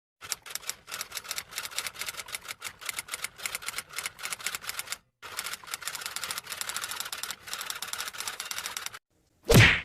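Typewriter sound effect: rapid, uneven key strikes in two runs with a short pause about five seconds in, then one short, loud swish near the end.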